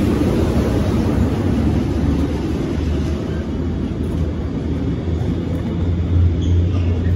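Container freight train hauled by two Class 90 electric locomotives pulling away, its flat wagons rolling past on the rails with a steady low rumble and hum.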